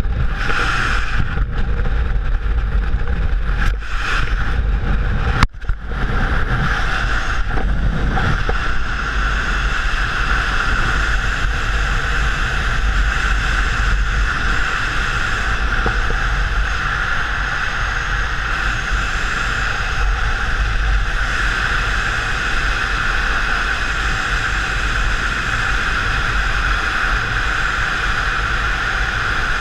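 A steady engine drone holding one pitch, under heavy wind rumble on the microphone, with a brief dropout about five and a half seconds in.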